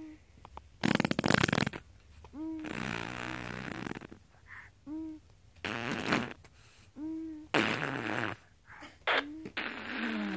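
Mouth-made imitation fart noises: about five buzzy, sputtering blows, the loudest about a second in, with short squeaky vocal chirps between them.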